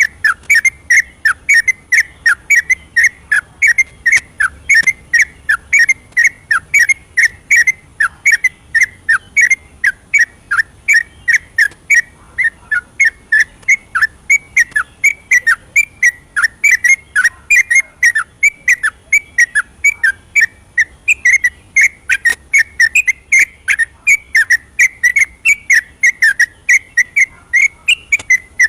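Yellow-vented bulbul singing its rapid continuous song, an unbroken run of short, clear whistled notes at about three or four a second.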